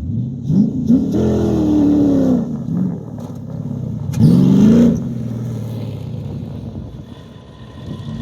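Dune buggy's aluminium Chevrolet LS1 5.7 L V8 revving twice, the engine pitch rising and falling. The first rev comes about a second in; the second, louder one comes around four seconds in. After that the engine settles lower and quieter.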